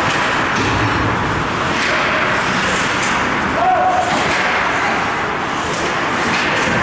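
Ice hockey rink ambience: steady crowd and arena noise with a few sharp knocks, and a brief raised voice about halfway through.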